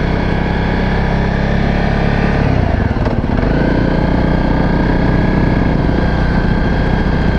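Single-cylinder four-stroke trail-bike engine running steadily while riding at low speed, its note shifting briefly about two and a half seconds in before settling again.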